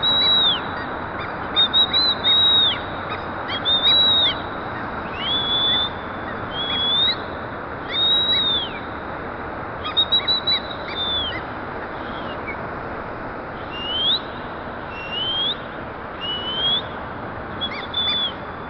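Parrots calling: a run of short, high whistled calls, arching or rising in pitch, about one a second, over a steady hiss.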